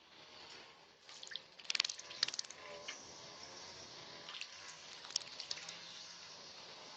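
A small bird splashing in a shallow bird bath, flicking water in two spells of quick splashes.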